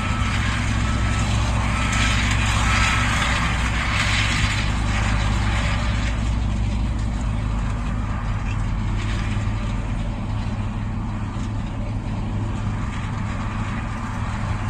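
Combine harvester's diesel engine running steadily under load, a constant low drone, with a reversing alarm beeping at an even pace during the first three seconds.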